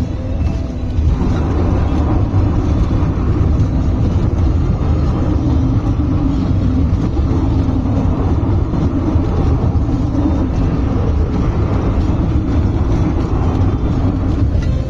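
Car driving on the road: steady engine and tyre noise, growing louder and brighter about a second in.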